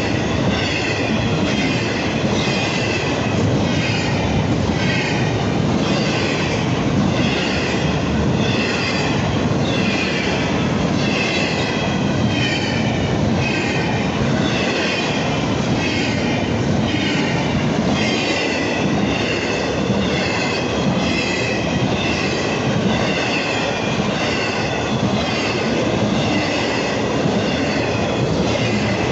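Railroad cars rolling past close by, a continuous rumble of wheels on rail with short high-pitched wheel squeals recurring about once a second.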